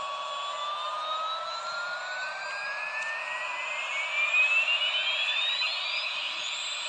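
Helicopter toy's whirring hiss with a high whine that holds steady, then rises slowly in pitch over about six seconds and levels off near the end, like a spool-up.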